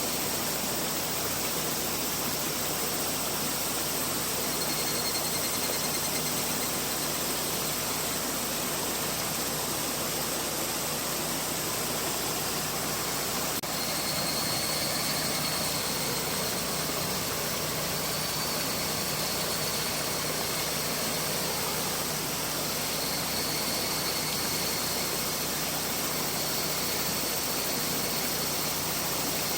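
Mountain river rushing steadily, a constant even wash of flowing water.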